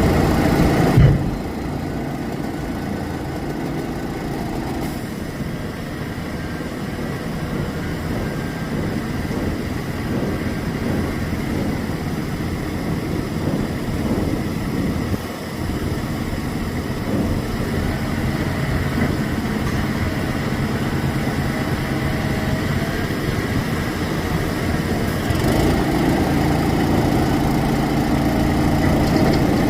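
Heavy dump truck diesel engines running steadily. There is a short thump about a second in, after which the engine sound drops, and it grows louder again near the end.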